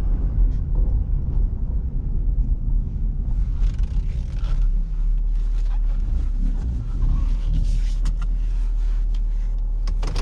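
6.7-litre Power Stroke V8 turbo diesel running, a steady low rumble. From about three seconds in, rustling and light knocks sit over it.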